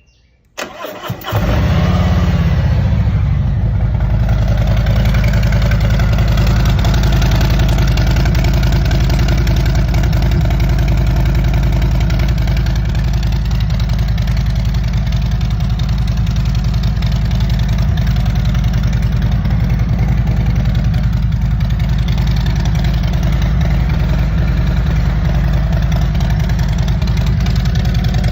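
Motorcycle with a 4-inch Vance & Hines Eliminator 400 exhaust starting up about half a second in, catching after a brief stumble, then idling steadily.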